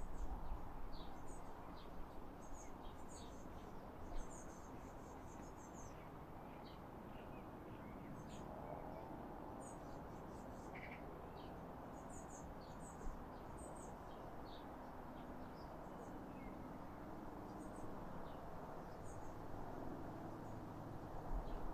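European pied flycatchers giving many short, high chirps and calls, scattered irregularly throughout, over a steady low background rumble.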